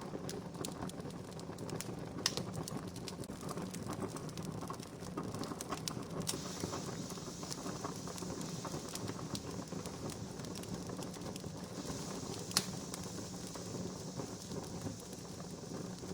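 Wood campfire crackling: a steady hiss with scattered small snaps and a few sharper pops, the loudest about twelve seconds in.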